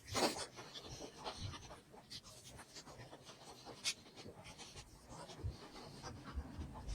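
Close-miked eating sounds: soft chewing with small wet mouth clicks and smacks while eating momos (dumplings). One sharper click comes just after the start and another about four seconds in.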